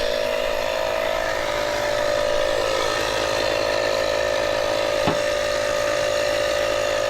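A small motor running steadily with an even hum at one constant pitch, and a single light click about five seconds in.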